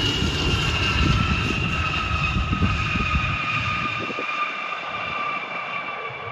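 Bombardier Challenger business jet going by, its engine whine falling slowly in pitch as it passes, over a low rumble that fades out about three and a half seconds in.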